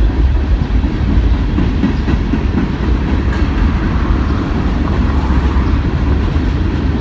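CSX freight train of loaded garbage cars rolling slowly past at close range: a steady, heavy rumble of steel wheels on the rails with some clatter.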